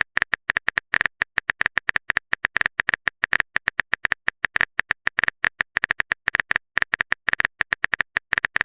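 A rapid string of short, identical electronic blips, about eight to ten a second with uneven gaps, like the text-scroll beeps that play as dialogue is typed out on screen.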